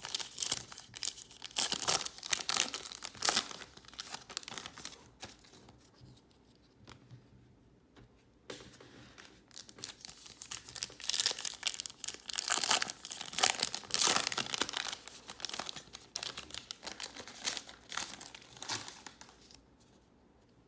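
Foil wrappers of baseball card packs being torn open and crinkled by hand, in two busy stretches with a quieter lull in between.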